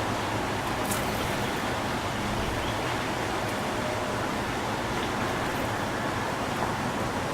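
Steady rushing outdoor background noise with no clear bird calls, and a faint click about a second in.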